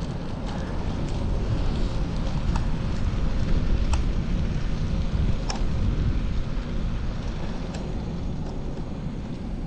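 Wind buffeting the microphone of a chest-mounted GoPro on a moving bicycle: a steady rumbling rush, with a few faint clicks scattered through it.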